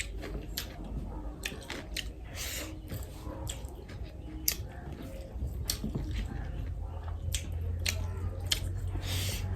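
Close-up eating sounds of curry and rice being chewed: wet chewing and lip smacks with irregular sharp clicks.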